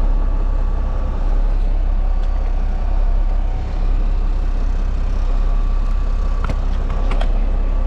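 Semi truck's diesel engine idling steadily as it warms up just after a hard start. A couple of short clicks sound near the end.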